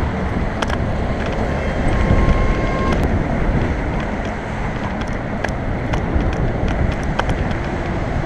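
Wind rushing over a helmet-mounted action camera's microphone while riding a bicycle in traffic, with steady road and traffic rumble underneath and a few sharp ticks.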